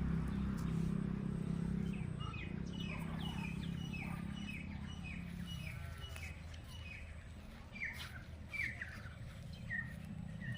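Small birds chirping, a quick run of short downward-sliding chirps starting about two seconds in, as they come to grain scattered for them. A low steady rumble underneath fades out about halfway through.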